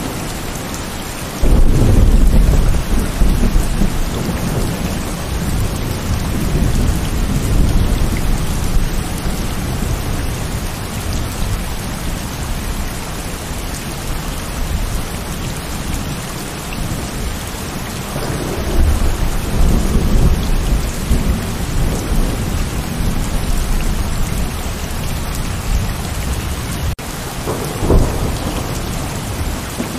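Heavy rain falling steadily, with thunder. A sudden loud clap comes about a second and a half in and rumbles on for several seconds, a second long rumble builds past the middle, and a short clap comes near the end.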